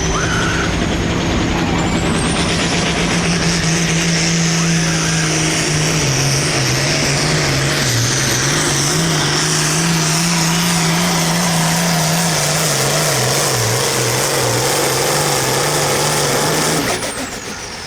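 Turbocharged diesel pulling tractor running at full throttle down the pull track, with a high turbo whine over the engine. From about six seconds in, the engine note dips and wavers as the sled loads it down. Near the end the engine is throttled off and the whine falls away.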